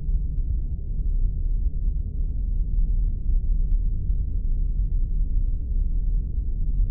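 Spaceship interior ambience sound effect: a steady, muffled low rumble with nothing high in it, unchanging throughout.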